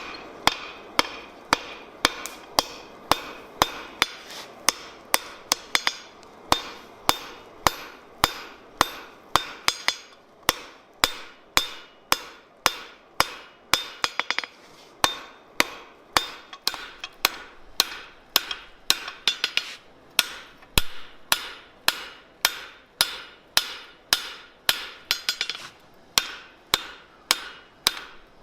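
Blacksmith's hand hammer striking steel on an anvil while forging a finial: a steady run of sharp blows, about two a second, each with a brief ring.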